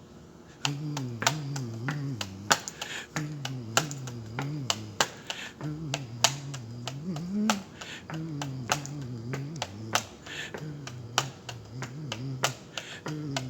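A man's low voice humming a wavering, wordless tune in short phrases, with many sharp clicks or snaps, a few each second, over it.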